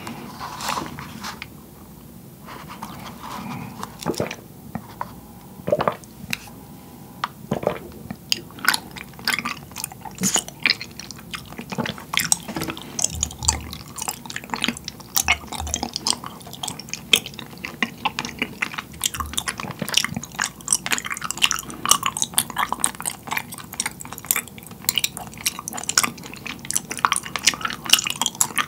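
A sip of black milk tea with tapioca pearls drawn up a wide straw near the start, then steady chewing of the chewy pearls, with many wet, irregular clicks and smacks that grow denser after the first several seconds.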